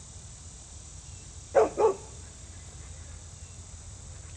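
A dog barks twice in quick succession, about a second and a half in, over a steady low background hum.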